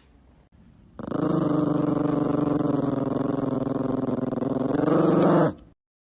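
A dog growling: one steady, continuous growl starting about a second in and lasting about four and a half seconds. It swells slightly near the end, then cuts off sharply.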